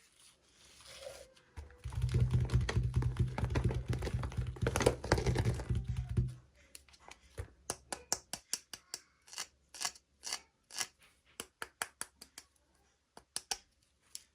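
Hands unboxing and handling small plastic toy pieces and packaging. Scraping and rustling builds up, is loudest between about two and six seconds in, and gives way to a run of separate light clicks and taps, a few a second.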